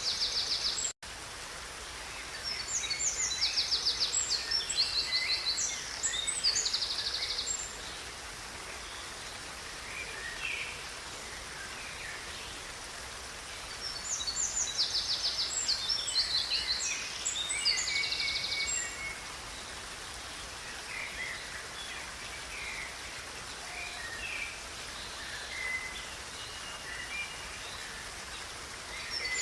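Songbirds singing in two long bouts of high, fast trills with scattered shorter chirps between, over the steady rush of a river. The sound cuts out for a split second about a second in.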